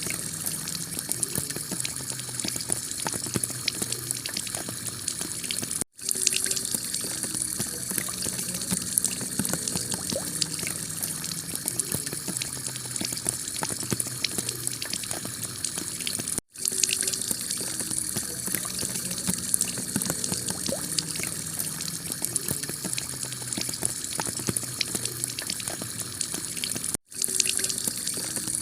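Heavy rain pouring onto a clay-tile roof: a steady, dense patter of drops. The sound cuts out for an instant three times, about ten seconds apart.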